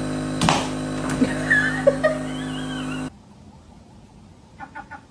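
A steady motor hum made of several tones, with a few faint clicks and wavering higher sounds over it. It cuts off suddenly about three seconds in, leaving quiet with a few small ticks.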